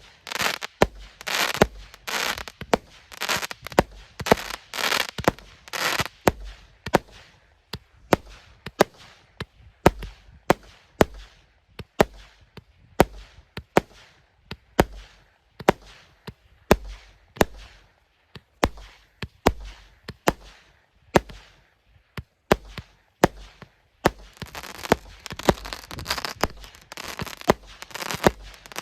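Consumer firework battery (a 150-shot cake) firing shot after shot, about two sharp bangs a second with a low thump under each. Crackling effects fill the first few seconds and come back near the end.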